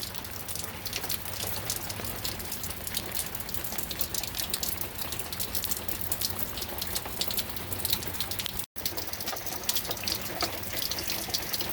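Steady rain falling, a constant hiss thick with sharp ticks of individual drops. The sound cuts out for an instant a little under nine seconds in.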